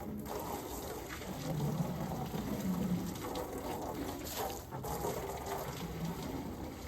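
Water running and splashing as a horse's water is filled up.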